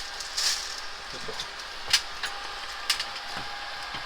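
Caulking gun being worked while sealing around an air-conditioner line penetration: a few sharp clicks spaced about a second apart and a brief hiss, over a steady background hum.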